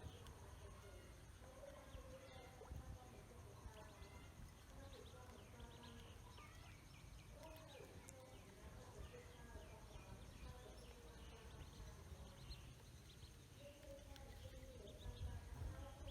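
Ducklings peeping faintly, many short high calls in quick succession, thickest in the middle stretch, over a low rumble.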